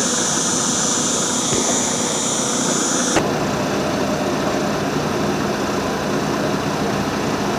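Steady engine noise. About three seconds in it changes abruptly to a duller, lower steady hum.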